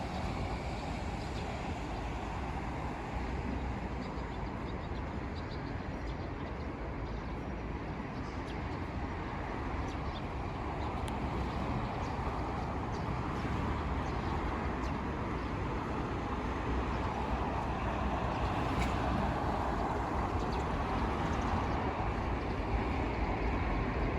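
Steady road traffic noise, a low rumble and hiss of passing vehicles that slowly grows louder over the second half.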